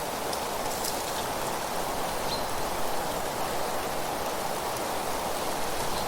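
Steady rushing noise of an outdoor nature ambience, even throughout, with a few faint high ticks in the first second and a half and one short, faint high chirp a little past two seconds in.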